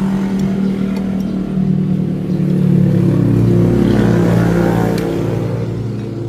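Suzuki Satria FU's single-cylinder four-stroke engine running and being revved, swelling louder through the middle and then easing back.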